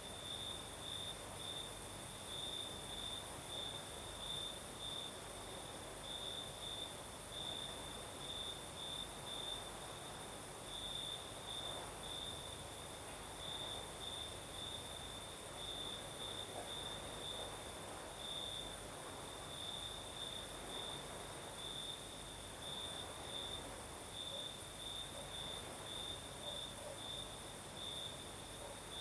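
Crickets chirping: a steady, pulsing trill held at one high pitch, over a fainter, even higher steady insect hum.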